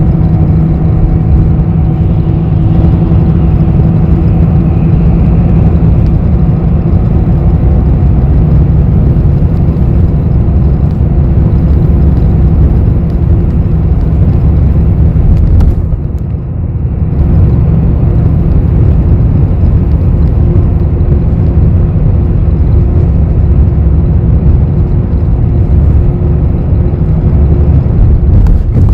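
Inside a city bus on the move: steady low engine and road rumble with a droning hum, dipping briefly about halfway through.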